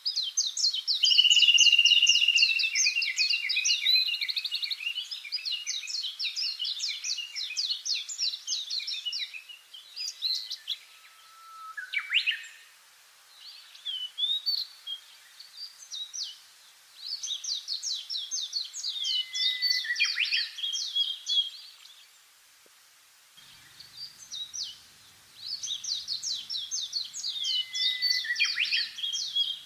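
Songbirds singing: long phrases of rapid, repeated chirping notes lasting several seconds each, with short pauses between them and a few single sweeping calls.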